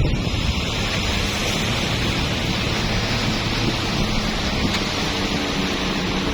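Boat under way, its engine running with a steady hum beneath the rush of water and wind noise on the microphone.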